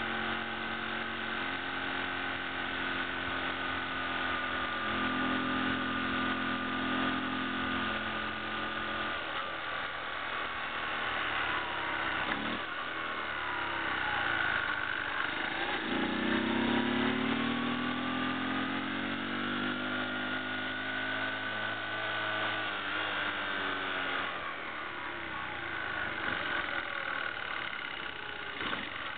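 Honda C70 Passport's 72cc single-cylinder four-stroke engine running while under way. About halfway through its pitch falls, then climbs again, and near the end it eases off.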